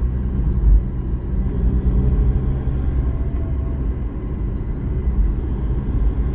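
Car driving along: steady engine and road rumble.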